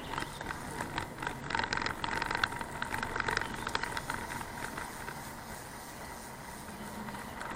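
Bicycle rattling and clicking over the road as it is ridden, with road noise and a faint steady whine underneath. The clicks are busiest in the first half.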